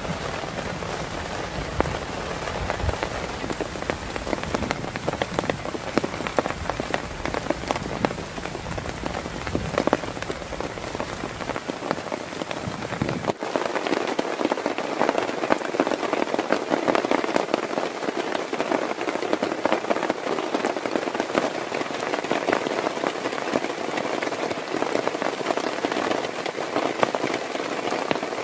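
Heavy rain falling steadily, with many drops striking a surface close by. About halfway through, the deep rumble under the rain stops suddenly, leaving a lighter, higher patter.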